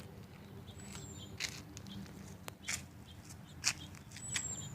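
Birds chirping: a handful of short, sharp high chirps and two thin whistles that slide downward, over a faint steady low hum.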